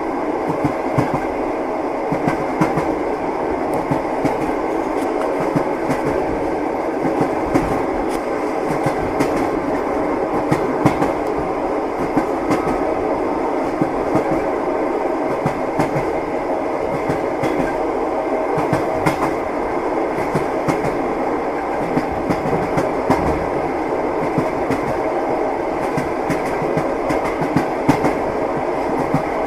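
Train wheels clattering over the rail joints: a steady rolling rumble with frequent clicks and knocks.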